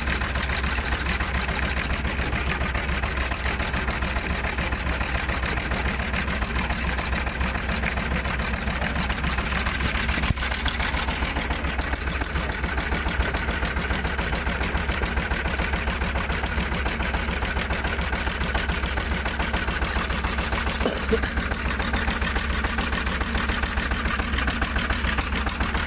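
An engine running steadily with a fast, even chugging and a strong low hum.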